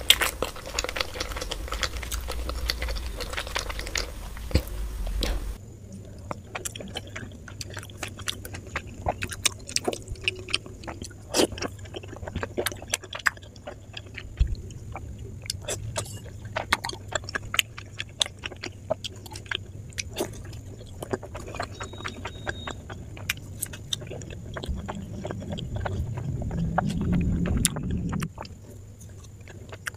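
Close-miked eating of soft, syrupy Indian sweets: wet chewing, smacking and lip clicks. Near the end a louder low sound rises for a few seconds and stops abruptly.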